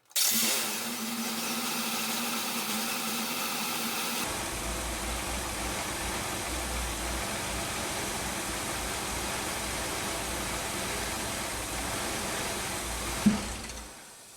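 Ford Freestar's 3.9L V6 engine starts and runs steadily, its sound changing about four seconds in, then a sharp click and the engine dies out near the end. It is being run to bleed off fuel pressure before the intake work.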